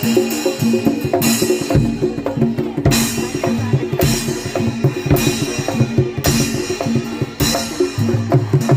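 Live Javanese gamelan accompaniment for a Barongan Blora dance: hand-drum beats and loud metallic crashes about once a second over steady ringing metallophone notes.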